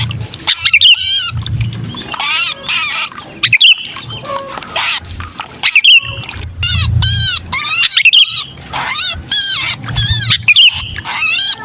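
Sooty-headed bulbuls giving harsh distress calls, bursts of rapid arching notes one after another: the 'kejepit' call of a caught bulbul, used to lure other bulbuls down. A low rumble sits under several of the bursts.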